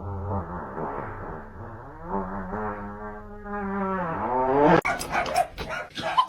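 A dog giving one long, drawn-out vocal call that holds a steady pitch and then bends up and down. It breaks off abruptly near the end into a quick run of sharp clicks and knocks.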